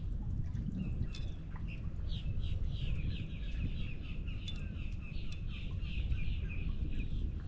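A bird singing a fast run of short repeated chirps, starting about two seconds in, over a steady low rumble.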